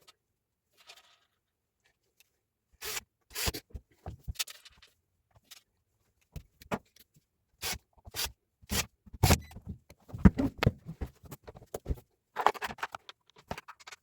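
Irregular knocks, clicks and short scrapes of things being handled, with no tool running.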